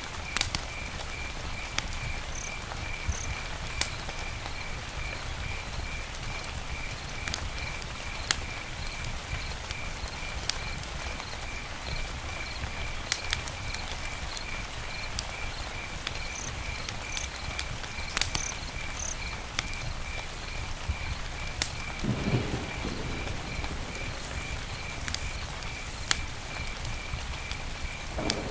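Campfire burning with a low steady rumble and scattered sharp crackles and pops. A faint chirping call repeats evenly about twice a second behind it.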